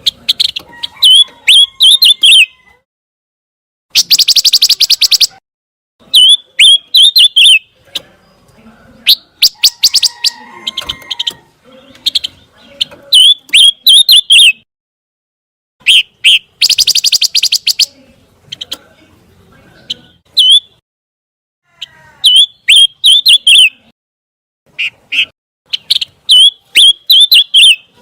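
Songbird known as pancawarna singing in repeated short phrases of quick, high, up-slurred whistled notes with brief pauses between them. Twice there is a fast dry rattle.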